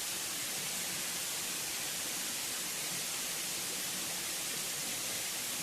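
Steady hissing rush of falling water from a waterfall, even throughout, with most of its energy in the high range.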